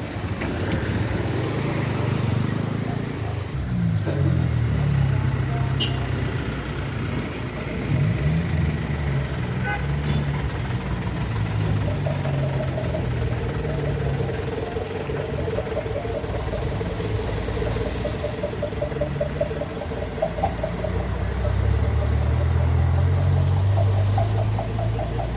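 Truck engines running at low speed, their pitch rising and falling repeatedly as they pass one after another.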